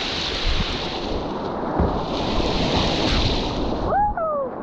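Wind buffeting the microphone over the rush of moving water, with low rumbling gusts. About four seconds in, a brief whistle-like call rises and then falls.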